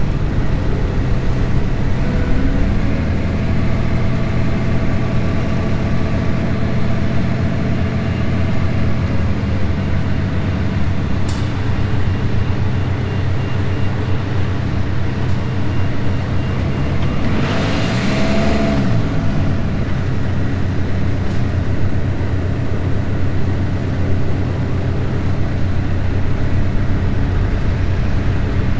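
Semi truck's diesel engine running steadily, with a brief rise and fall in pitch and a hiss about eighteen seconds in.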